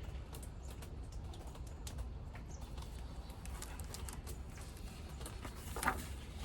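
Quiet room tone: a steady low hum with faint scattered clicks, and one short, louder sound about six seconds in.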